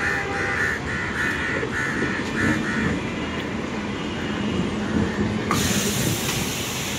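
Suburban electric multiple-unit train running past along a platform with a steady low rumble of wheels on rail. A rapid series of short high beeps sounds until about three seconds in, and the sound changes abruptly about five and a half seconds in.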